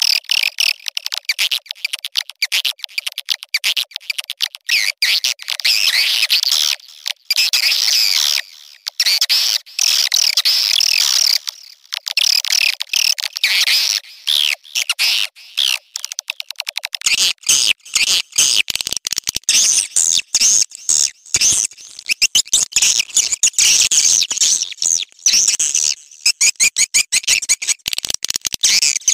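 Swiftlet mating and calling chirps: dense, rapid, high-pitched twittering and clicking, used as a lure call for swiftlets. A little past halfway the sound turns fuller and noisier.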